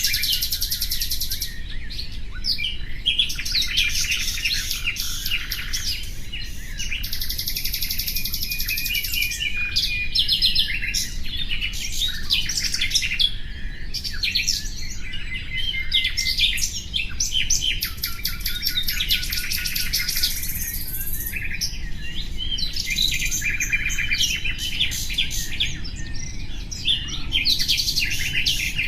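Nightingale singing continuously: rapid trills and runs of fast repeated notes, one phrase after another with only brief gaps.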